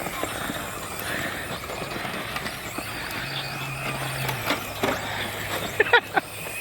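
Brushless electric RC short course trucks driving on dirt: a high motor whine over the rush of tyres on loose ground. A few sharp knocks come near the end.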